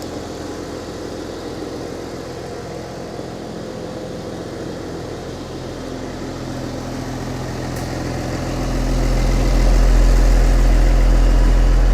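Tractor diesel engine running steadily at idle, growing markedly louder and deeper about two-thirds of the way through.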